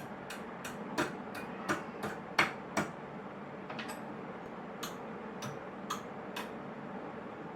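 A series of light, sharp taps or ticks, about three a second and uneven in strength, with a few louder strikes in the first three seconds.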